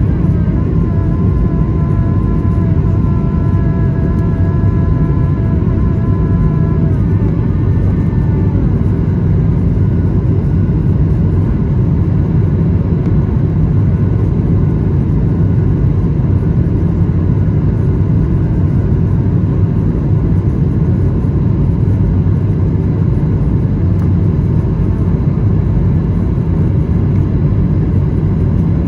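Airbus A220-300 jet engines and airflow heard from inside the passenger cabin during takeoff: a loud, steady low rumble, with a set of steady whining tones over roughly the first eight seconds that then fade.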